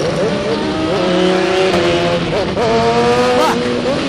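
BMW S1000RR inline-four race engine at high revs under heavy wind noise, pitch climbing under acceleration and dropping sharply twice at gear changes.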